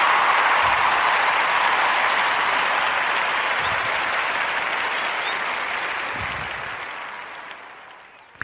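Crowd applause, fading out over the last two seconds.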